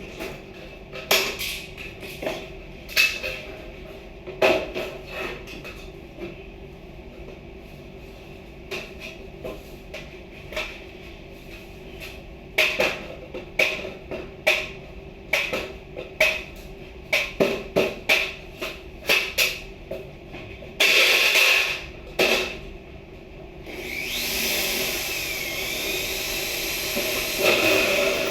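Carpentry work: irregular hammer blows and knocks on wood, coming thick and fast in the middle stretch. About three-quarters through an electric power tool runs in a short burst, then starts again and runs steadily to the end, its pitch sliding a little.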